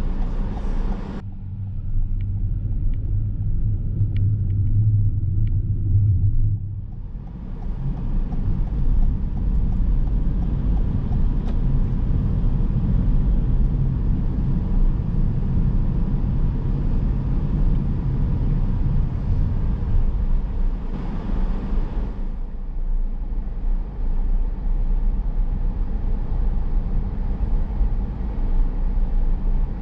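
Car driving, with a steady low rumble of engine and tyre noise. About a second in, the road hiss drops away for a few seconds, leaving a steady low engine hum, then the road noise builds back up.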